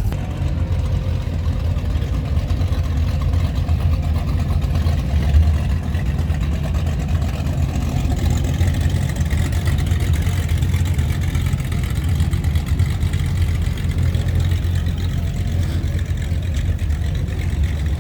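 Classic car engines running, a steady low rumble.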